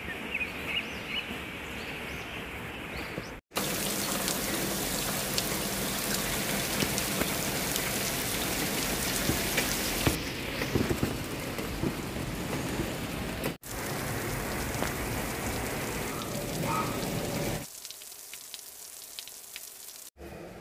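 Rain falling, in several separate recordings joined by sudden cuts. It is lighter for the first few seconds with a few high chirps, then heavy and hissing for most of the time, and much quieter with scattered light ticks near the end.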